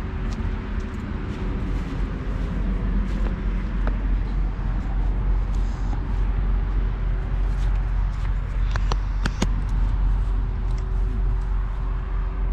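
Steady low rumble of idling truck engines, with a steady hum over it, and a few sharp clicks about nine seconds in.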